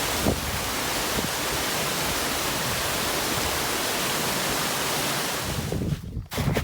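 Waterfall on a river, a steady, full rushing noise of falling water that breaks off near the end.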